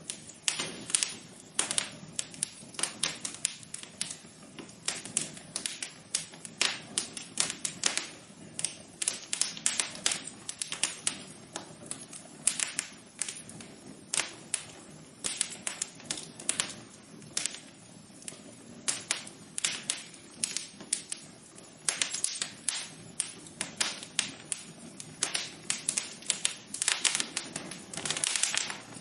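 Wood fire crackling: a dense, irregular run of sharp snaps and pops, several a second, over a soft steady hiss.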